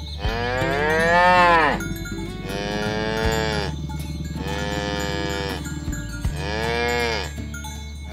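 Cows mooing: four loud, drawn-out moos in quick succession, the first rising and then falling in pitch.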